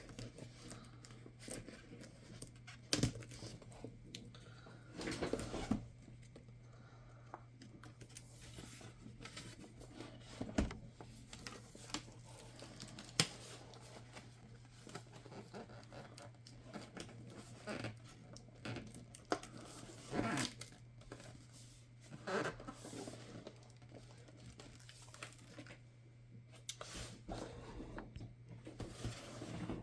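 Hands working on a laptop's screen assembly: scattered small clicks and taps of plastic parts and tools, with a few rustling, tearing-like sounds, over a steady low electrical hum.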